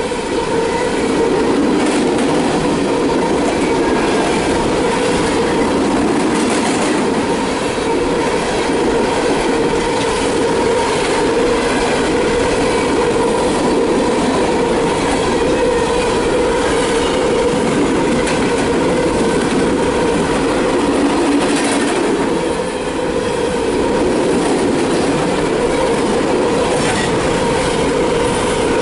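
Empty coal hopper cars of a CSX freight train rolling past: steady, loud wheel-on-rail noise with clicks at the rail joints and a steady whining tone from the wheels.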